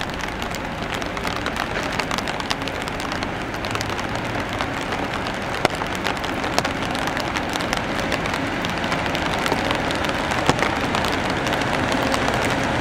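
EF210 electric locomotive hauling a container freight train slowly into a station: a steady rolling rumble of wheels on rail with scattered sharp clicks, gradually growing louder as it nears.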